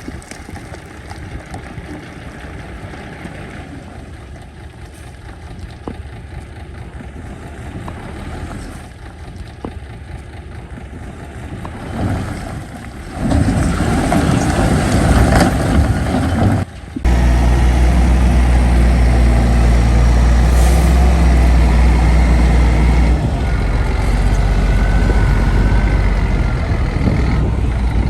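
Heavy diesel earthmoving machinery running. It is fairly quiet and noisy at first and grows louder about halfway through. After a brief break it becomes a loud, steady, low engine drone.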